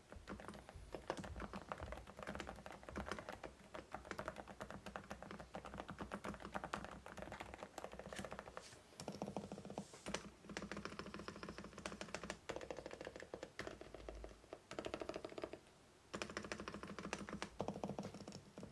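Typing on a COX CK88 mechanical keyboard with Deep Sea switches: fast, continuous keystrokes with a few short pauses.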